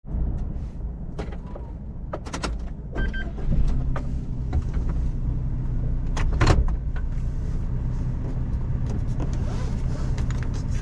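Inside the cabin of a Suzuki Every DA17V kei van on the move: a steady low drone of the small three-cylinder engine and road noise. Several sharp clicks and knocks come from the cabin, with a short beep about three seconds in.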